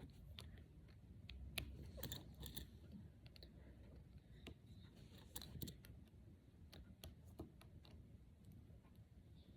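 Faint, irregular clicks of small plastic Brain Flakes discs being handled and pushed together, a few sharper snaps among them.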